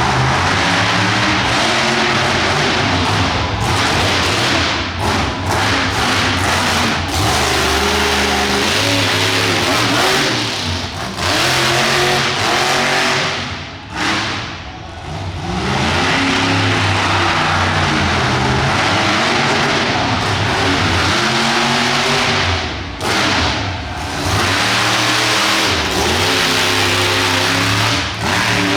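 Monster truck engine revving hard in repeated throttle bursts, its pitch climbing and falling again and again. The throttle briefly drops off about halfway through and again near the end.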